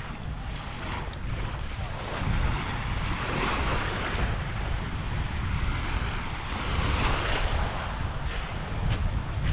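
Wind buffeting the microphone with a low rumble, over the steady wash of small waves on a sandy beach.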